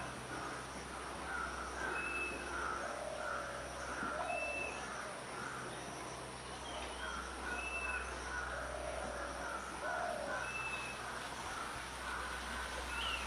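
A bird known locally as tali pocong calling in the wild: a short, high note repeated about every two seconds over a steady chorus of lower calls.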